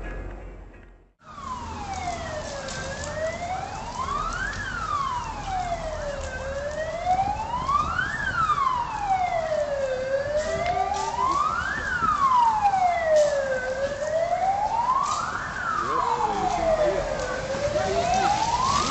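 Emergency vehicle siren in a slow wail, its pitch sweeping smoothly up and down about every three and a half seconds. It comes in suddenly about a second in, after a brief gap.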